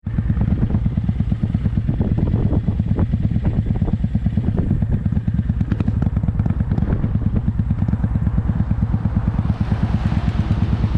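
Motorcycle engine running with a rapid, steady low pulse and some clatter. A rush of wind noise builds near the end.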